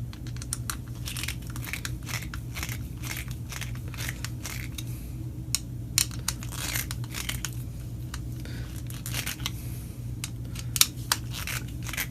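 Screwdriver turning the cord-clamp screws of a replacement extension-cord plug, a little on each screw in turn: a run of small irregular clicks and scrapes from the screwdriver and the plastic plug body.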